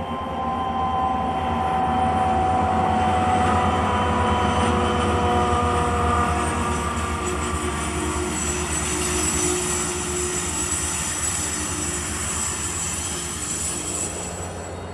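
Several diesel-electric freight locomotives pass, their engines running under load with a steady rumble and a whine that slowly falls in pitch. The sound then eases as the train's cars roll past, with a faint high squeal joining in the second half.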